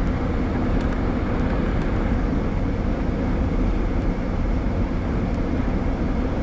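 Steady road and engine noise of a car driving, heard from inside the cabin, with a few faint ticks.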